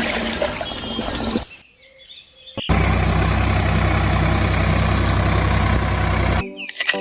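Birds chirping over outdoor noise, then after a short quieter gap a small engine running steadily at a constant speed for about four seconds, cut off abruptly near the end.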